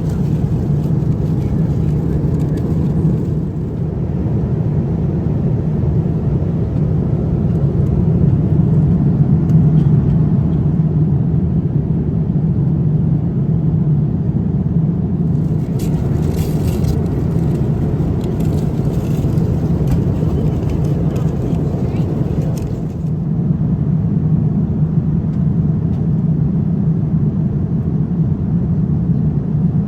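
Steady cabin noise of a Boeing 787-9 Dreamliner in flight: a constant low rush of engine and airflow heard from inside the passenger cabin.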